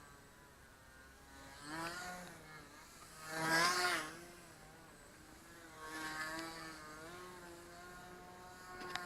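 Motor and propeller of a foam radio-controlled model airplane in flight, a buzzing whine whose pitch wavers as it swells louder three times as the plane passes. A sharp click comes near the end.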